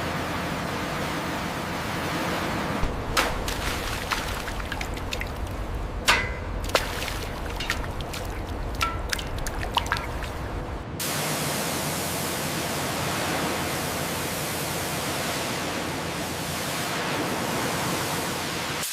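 Steady rushing noise with a low hum, broken by a run of sharp knocks and clicks. About halfway through it cuts abruptly to a smoother, even hiss.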